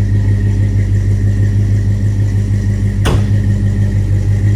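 1966 Chevrolet Nova Super Sport's V8 engine idling steadily, with a single sharp click about three seconds in.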